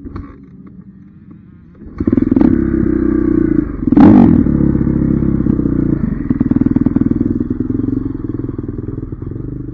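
Dirt bike engine running quietly, then opening up sharply about two seconds in and revving hard. It is loudest around four seconds, then holds steady throttle while gradually getting quieter.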